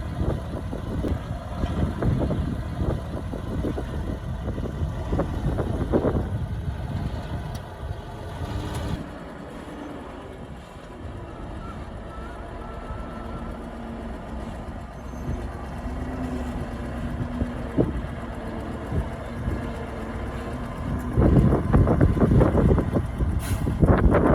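Diesel earthmoving machinery running with a rough mechanical rumble. It drops quieter about nine seconds in and grows loud again near the end.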